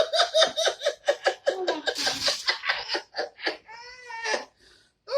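A person laughing hard and uncontrollably in rapid repeated bursts, about five or six a second, breaking into a longer drawn-out high laughing cry about four seconds in.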